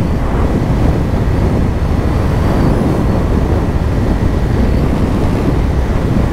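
Kawasaki Ninja 500's parallel-twin engine running under a steady rush of wind noise on the helmet microphone while the bike cruises at speed.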